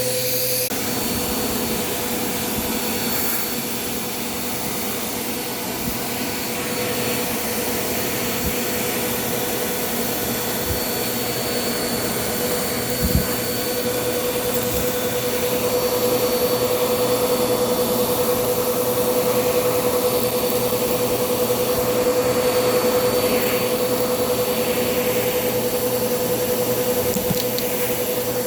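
Bissell PowerForce Compact upright vacuum running steadily, with a constant motor whine over the rush of air, sucking up debris. There is a sharp knock about 13 seconds in, and the sound grows a little louder from about halfway through.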